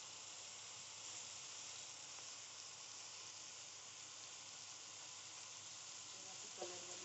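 Tomato-chilli masala frying in oil in a kadai, a faint, steady sizzle.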